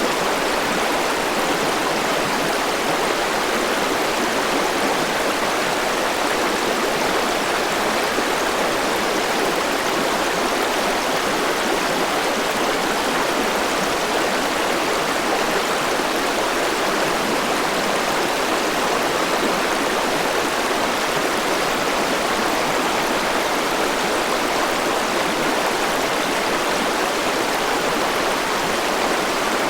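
River water rushing and flowing over rocks in a steady, unbroken wash of sound.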